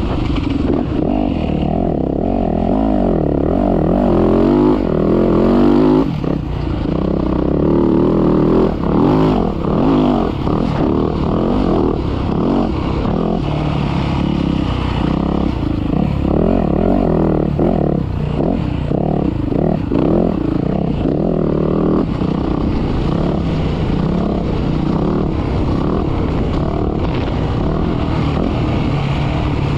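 Dirt bike engine running hard, its pitch repeatedly rising and falling as it revs up and shifts, with steadier running in the later part.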